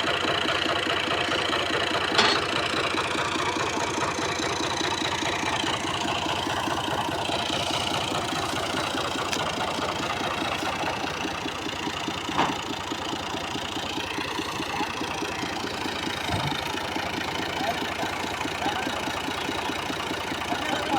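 Tractor diesel engine idling steadily, with a sharp click about two seconds in and another about twelve seconds in.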